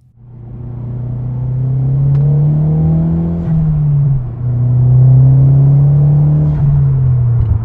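Mazdaspeed3 Gen 2's turbocharged 2.3-litre four-cylinder through a Cobb catback exhaust, heard from inside the cabin while accelerating from a rolling start in second gear. The engine note climbs steadily, drops with an upshift about three and a half seconds in, climbs again, and drops with another shift near the end.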